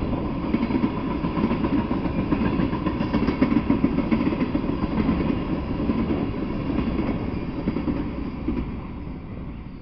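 Freight train of tank cars rolling past: a steady rumble of steel wheels on the rails, with the clicking of wheels over rail joints. The sound fades near the end as the last car goes by.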